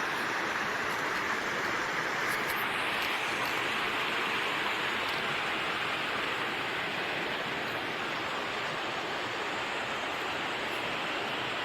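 Steady rush of a waterfall and fast-running creek water, even and unbroken.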